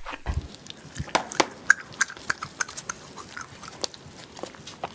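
Close-miked eating of shellfish: wet chewing and mouth smacks, with many sharp clicks and crackles.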